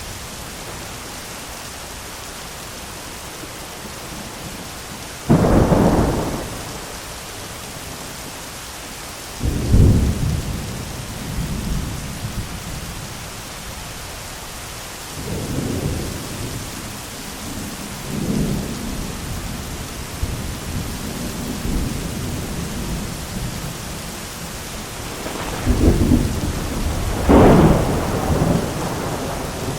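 Steady heavy rain with repeated thunder: sharp cracks about five seconds in and near the end, and rolling rumbles between them that die away over a few seconds.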